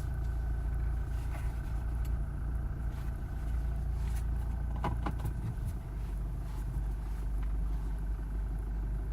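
Steady low rumble of a Toyota Fortuner's engine heard from inside the cabin, with a few faint clicks.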